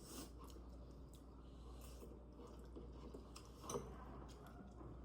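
Faint chewing with scattered soft mouth clicks, one a little louder about three-quarters of the way through.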